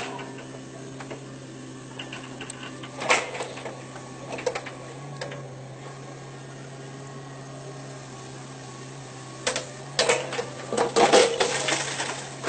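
A machine engine running steadily, with a few sharp clattering knocks about three seconds in and a dense run of clanks and knocks near the end.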